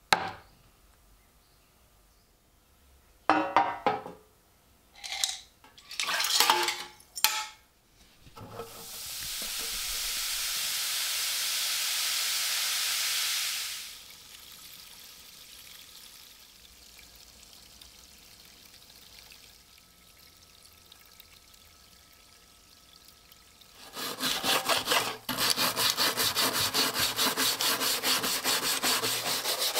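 Hand work on an old pocket knife: a sharp click, then a few short knocks and scrapes. A steady hiss follows for about five seconds. About three-quarters of the way through, fast, even back-and-forth rasping strokes on wood begin.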